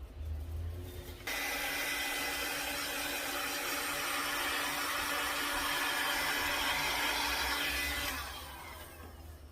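Hand-held hot-air blower running: switched on suddenly about a second in, blowing steadily with a faint motor whine, then winding down near the end.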